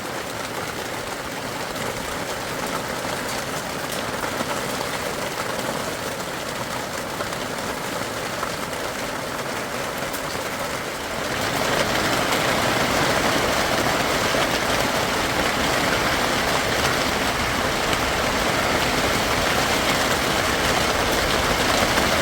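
Heavy rain pouring down in a steady rush, growing clearly louder about halfway through as the downpour intensifies.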